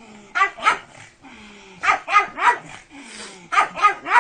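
A dog barking in quick runs of two or three barks, three runs in all, with softer whining tones between them.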